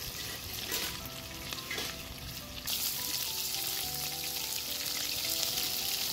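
Battered chicken hearts deep-frying in a wide pan of oil, a dense, steady sizzle that gets louder and brighter about three seconds in.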